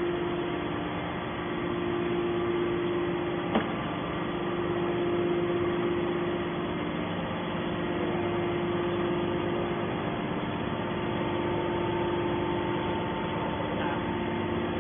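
Scrap metal baler running: a steady machine hum with a held tone, and one sharp click about three and a half seconds in.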